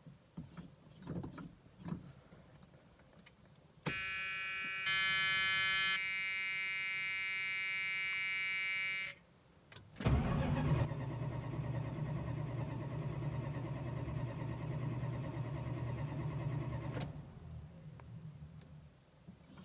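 A Chrysler's starter cranks the engine for about seven seconds, starting suddenly and cutting off sharply, without the engine catching; the car is hard to start, likely flooded. Before it, a steady electronic warning tone sounds for about five seconds.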